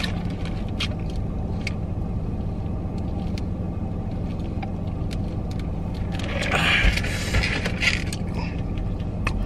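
Steady low hum of a car idling, heard from inside the cabin, with a few faint clicks and a brief rustle about two-thirds of the way through.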